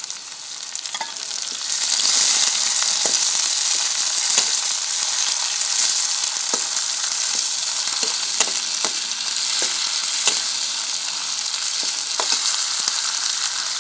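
Chopped tomatoes, onions and green chillies sizzling in hot oil in a kadhai, the sizzle growing louder about two seconds in. A steel ladle stirs and scrapes the pan, making irregular sharp clicks. The vegetables are being lightly sautéed as the masala base for kadhi.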